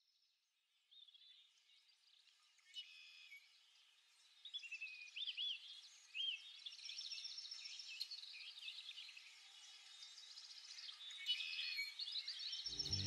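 Birds chirping and whistling, several overlapping calls that fade in from near silence and build steadily. Music comes in just at the end.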